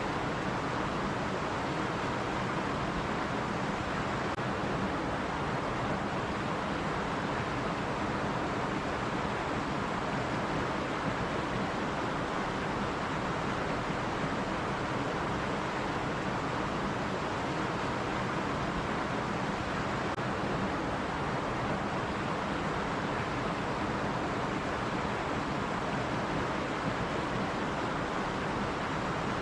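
Stream water rushing and babbling over rocks, a steady, even sound with no breaks.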